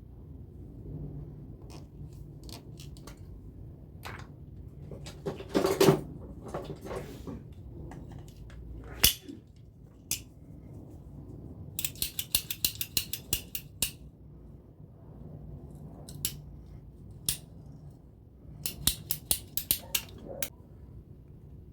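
Hand work on a plastic water pipe: scattered clicks and knocks, a louder clatter about six seconds in, and two runs of rapid clicking, one in the middle and one near the end.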